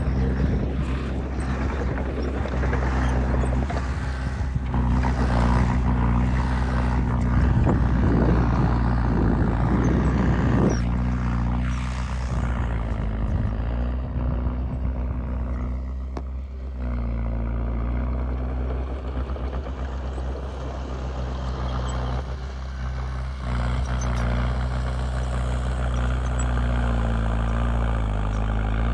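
Heavy-equipment diesel engine running steadily, with a coarse noisy rumble over it for roughly the first ten seconds, after which the engine goes on alone.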